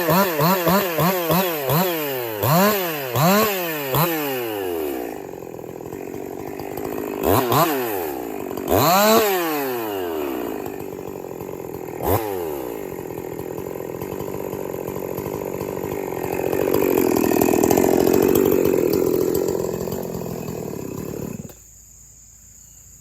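Husqvarna 346XP two-stroke chainsaw blipping its throttle in quick revs, about two a second, then idling between a few single revs and running steadily at a lower pitch for several seconds before the engine cuts off suddenly near the end.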